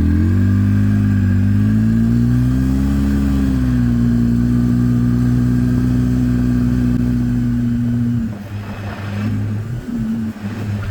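An engine running at a steady speed, its pitch rising slightly in the first few seconds and then holding; about eight seconds in it turns quieter and uneven.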